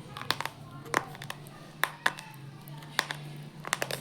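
Close-miked crunching of crunchy noodles being bitten and chewed: sharp, irregular crunches a few times a second, bunching together near the end.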